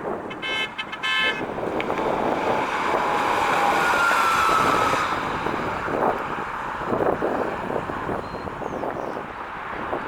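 Car on the move: steady road and wind noise with irregular low thumps. About half a second in comes a brief, pulsed, high-pitched toot, and a faint thin whine falls slightly in pitch a few seconds in.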